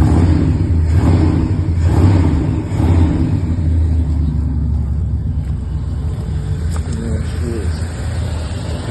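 Old Ford truck engine running, revved up in a few swells near the start and then running more steadily with a deep rumble.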